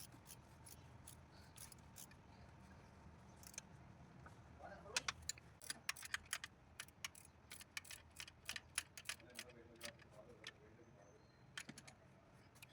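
Irregular light metallic clicks and clinks, like hand tools and small metal parts being handled, several a second for about six seconds from a third of the way in, over a faint low hum.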